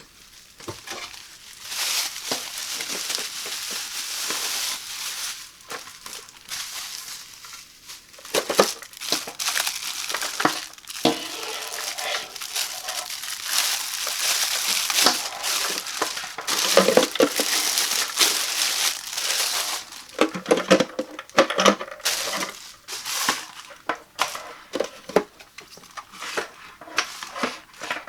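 Packaging crinkling and rustling as a humidifier is unboxed by hand, with scattered clicks and taps from the handling.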